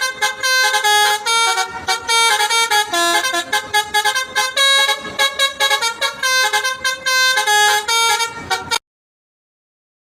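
Intercity coach's multi-tone musical air horn (an Indonesian 'telolet' horn) playing a rapid tune of stepped notes, which cuts off suddenly near the end.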